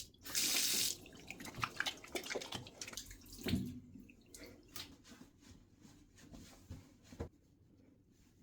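Water from a tap runs in a short hiss just under a second long, followed by scattered light knocks and clicks that fade out.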